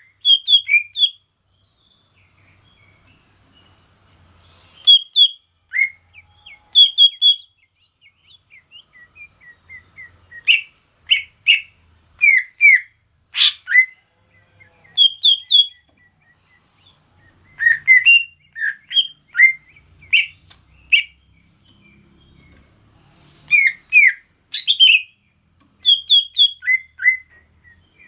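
Cucak ijo (green leafbird) singing: loud, clear whistled notes in quick groups of two to four, some slurring downward, repeated every second or two. A steady high-pitched hiss runs underneath, dropping out briefly twice.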